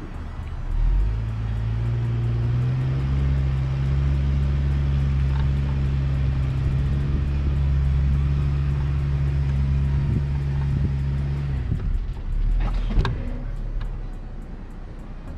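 A motor running at a steady low pitch, cutting off abruptly about twelve seconds in, followed by a short knock.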